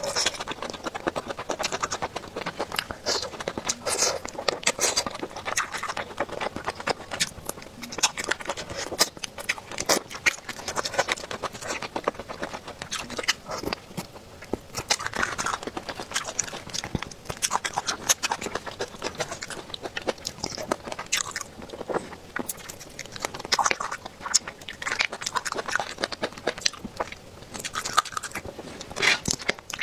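Close-up crunching and chewing of crispy fried crab sticks, a steady run of irregular crisp bites and chews, several a second.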